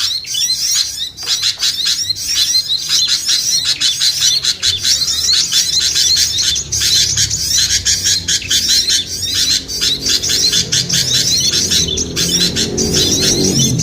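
A dense, noisy chorus of small songbirds, a bird-lure recording: rapid, overlapping high-pitched chirps, trills and squawks with no pause. From about the middle on, a low pitched layer grows underneath.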